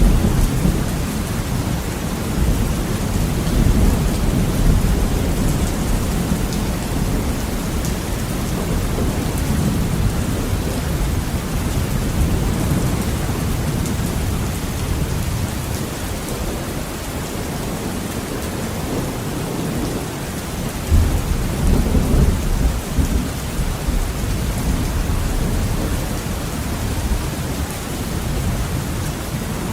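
Heavy rain beating steadily on a window, under deep rolling thunder. The thunder swells into a louder rumble about two-thirds of the way through, then eases back.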